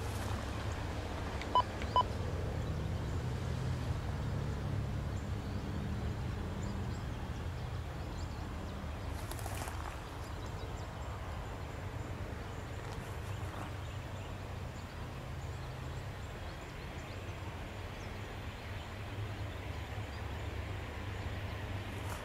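A freight or passenger train's rumble fading away into a steady low outdoor rumble, with two short high chirps about two seconds in.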